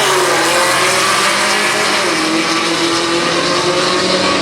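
Mustang and Challenger drag cars racing at full throttle, loud throughout. The engine pitch rises and drops in the first couple of seconds, then holds steady.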